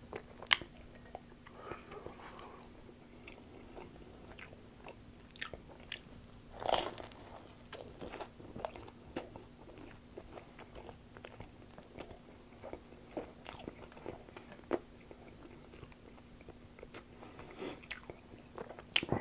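Biting and chewing a slice of Pizza Hut pizza: irregular crunches and mouth sounds over a faint steady hum. The loudest crunch comes about seven seconds in.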